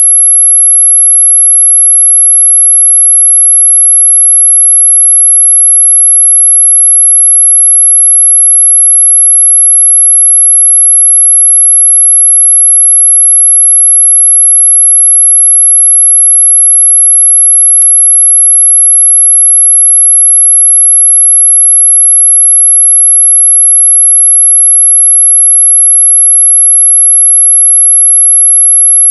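Continuous high-pitched electronic sine tone played as an anti-mosquito repellent sound. It stays at one pitch and one level throughout, loud.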